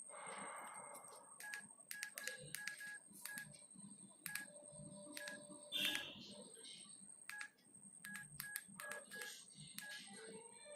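Keypad beeps of a basic button mobile phone as its keys are pressed: a dozen or more short beeps at the same pitch, each with a click, in quick runs with pauses between.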